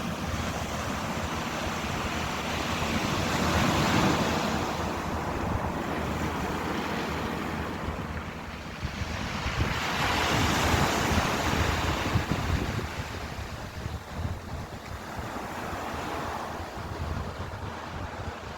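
Ocean waves breaking on a shore, one surge about four seconds in and another around ten to eleven seconds, with a smaller one near the end. Wind buffets the microphone as a low rumble throughout.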